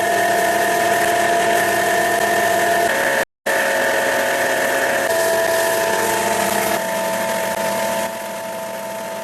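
A woodworking power tool's electric motor running at a steady speed, with a steady whine over a hiss of cutting noise. It cuts out abruptly for a moment about three seconds in, then runs on and drops in level in two steps near the end.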